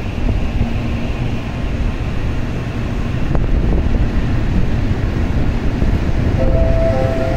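N700-series Shinkansen train rolling along the far platform track: a steady low rumble mixed with wind noise on the microphone. Near the end a few clear steady tones at different pitches come in.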